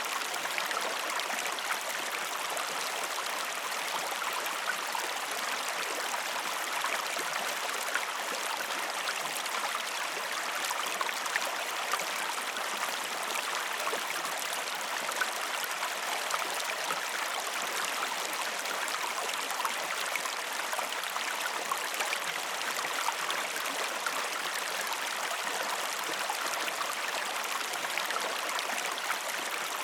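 River water flowing steadily, an even rush with many small splashes and gurgles running through it.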